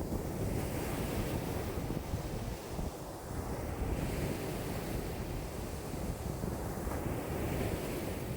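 Lake waves breaking and washing in strong wind, with wind buffeting the microphone. The wash swells and ebbs every few seconds over a steady low rumble.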